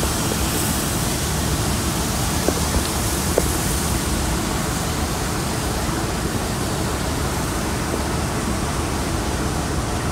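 Passenger coaches of a heritage steam train rolling past a platform: a steady rushing rumble of wheels on rails, with a few sharp clicks between about two and a half and three and a half seconds in.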